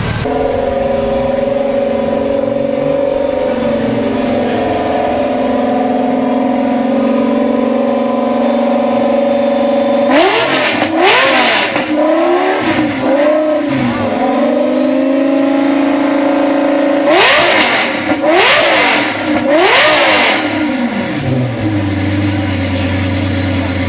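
A car engine held at steady revs, then blipped hard several times in two groups, rising and falling in pitch, before settling to a low idle near the end.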